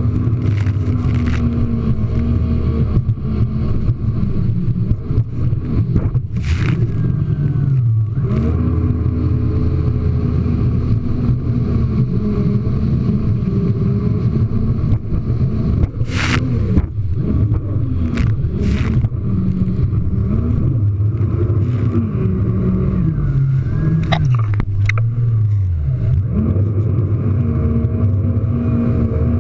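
Jet ski engine running hard, its pitch rising and falling as the throttle is worked over the waves. Several sudden slaps break in as the hull lands on the water.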